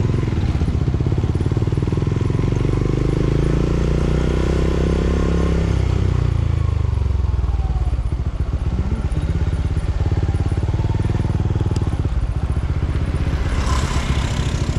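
Vehicle engine running, its pitch rising for about five seconds as it speeds up, then dropping away and running on steadily.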